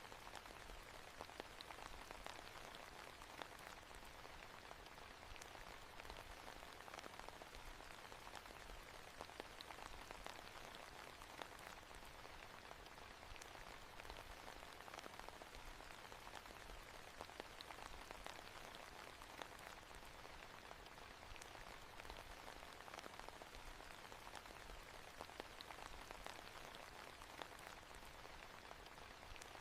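Faint, steady rain falling, a soft even patter with many small drop ticks.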